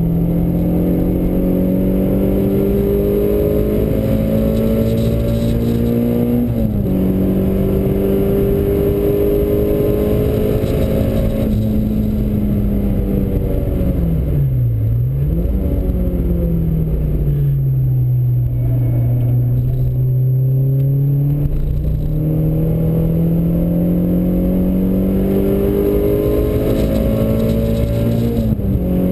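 Renault Clio's engine heard from inside the cabin on track. The revs climb under acceleration, with upshifts about six seconds in and again near the end. Around the middle the revs dip sharply and come back, then hold low through a corner before climbing again.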